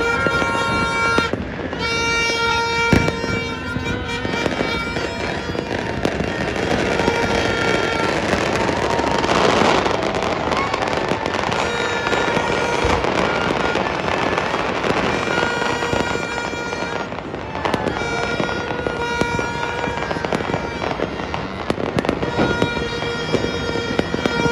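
Dense crackling and popping of many fireworks and firecrackers going off at once all over a city, thickening into a heavy crackle about ten seconds in. Steady held tones at a few fixed pitches sound on and off over the crackle.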